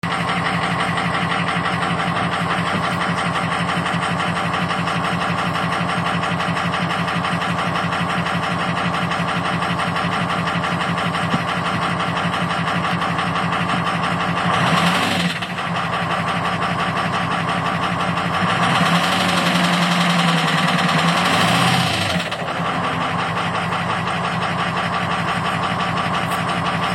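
An engine idling steadily, revved briefly once a little past halfway, then held at higher revs for about three seconds later on before dropping back to idle.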